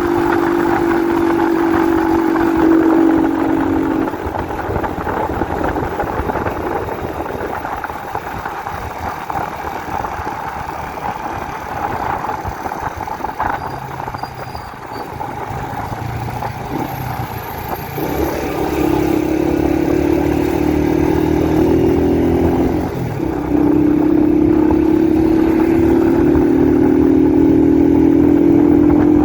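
Honda 125 CDI single-cylinder four-stroke motorcycle engine heard from the rider's seat on the move. It pulls steadily at first, eases off about four seconds in and runs quieter and rougher, then picks up again well past the middle. Its pitch climbs, dips briefly and climbs again.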